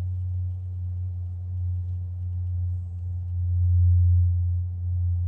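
Steady deep rumbling hum, swelling a little about four seconds in.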